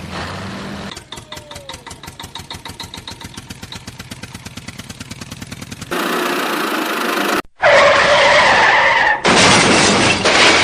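A series of vehicle sound effects. A low engine hum lasts about a second, then a fast, even engine chugging runs for about five seconds. From about six seconds in come loud hissing and screeching noises, broken by a sudden cut.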